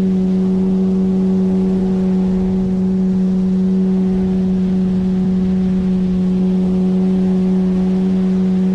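A 9.8 hp outboard motor running at a steady cruising speed, pushing a PVC inflatable boat. It is a loud, even drone with one strong constant pitch and overtones above it.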